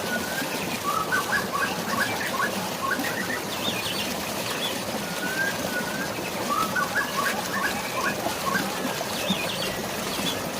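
Birds singing over a steady wash of flowing water and rain. The same phrase comes twice: a short gliding whistle, then a quick run of chirps, with a few higher notes after.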